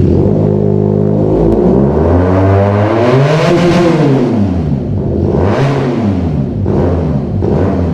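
QJMotor SRK 400 parallel-twin (400 cc, two-cylinder) motorcycle engine idling and being revved: one long rev that climbs and drops back to idle, then a shorter blip about two seconds later.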